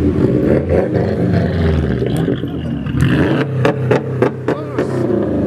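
Car engine running with a steady low note, its pitch wavering as it is revved. From about three seconds in there are several sharp cracks.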